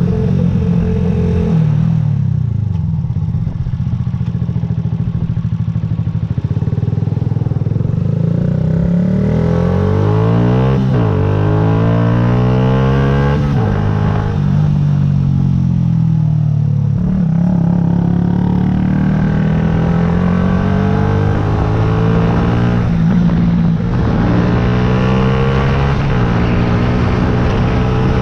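Yamaha YZF-R125's 125 cc single-cylinder four-stroke engine under way, its pitch rising and falling several times as the bike accelerates and eases off.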